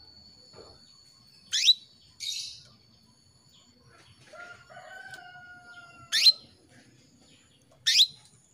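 Female canary calling to attract a male: three loud, sharp, upward-sweeping call notes, the first about one and a half seconds in and two close together near the end. A fainter, drawn-out crow in the middle, a rooster in the background.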